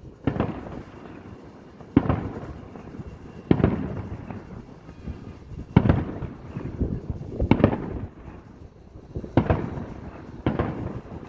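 Aerial fireworks bursting: about seven sharp bangs, one every one and a half to two seconds, each trailing off in a rumbling echo.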